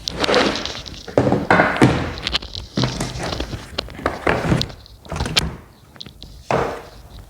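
A series of irregular thunks and knocks from a toolbox being opened and its contents handled.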